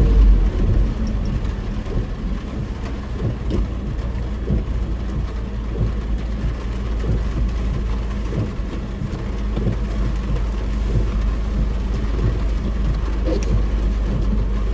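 Heavy rain pattering on a car's roof and windshield, heard inside the cabin over the steady low rumble of the car driving on a wet road.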